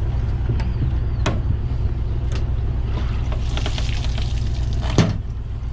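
A vehicle engine running steadily, a low rumble, with a few sharp clicks and knocks over it, the loudest about five seconds in.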